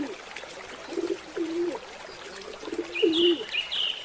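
A dove cooing: a series of short, low coos, with small birds chirping in the background from about three seconds in.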